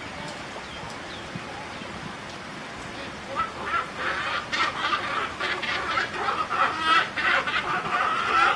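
Steady rain hiss, then from about three and a half seconds in, wood stork nestlings calling: a dense run of short begging calls repeated rapidly, one after another.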